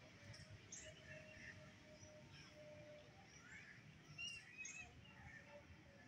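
Faint scattered chirps of small birds over low outdoor background noise, with a couple of sharper high chirps about four seconds in.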